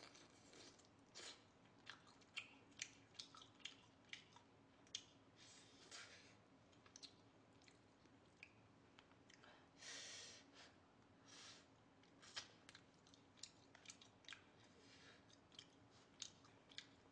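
Faint, close-miked chewing of boiled duck meat, with many short wet mouth clicks and lip smacks scattered through and a few soft breathy hisses.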